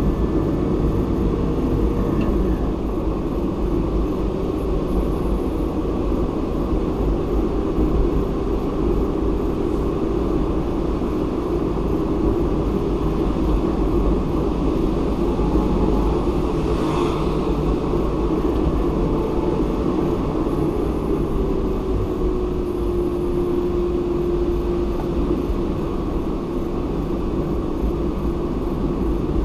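Car driving steadily: a continuous rumble of tyre and engine noise with a droning hum that drops slightly in pitch about three-quarters of the way through. A short swell of hiss comes a little past halfway.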